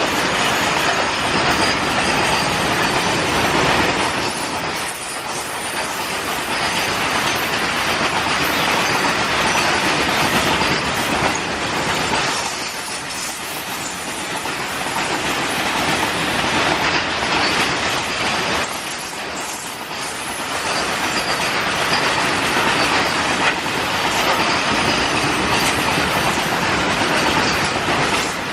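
Freight train wagons running past at speed: a continuous loud rush of steel wheels on the rails that dips briefly three times.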